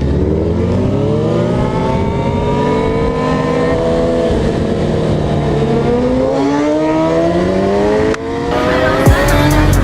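A vehicle engine revving under acceleration, its pitch climbing over several seconds, dropping briefly, then climbing again before cutting off. A hip-hop beat kicks in near the end.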